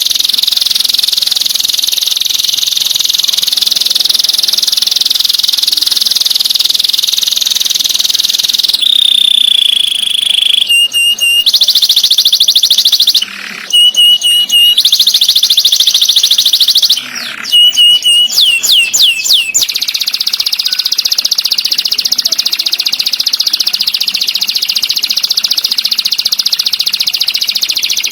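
Songbird singing in a fast, high, rattling trill, broken in the middle by short clear whistled notes and a quick run of downward-sweeping notes before the trill resumes.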